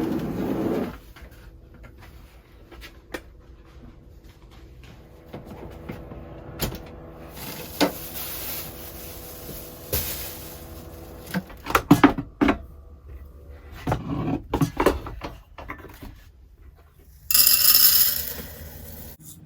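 Kitchen handling sounds in a camper van: scattered knocks and clatters of cupboards, containers and utensils, with a few louder knocks about twelve seconds in and a rushing noise lasting about two seconds near the end.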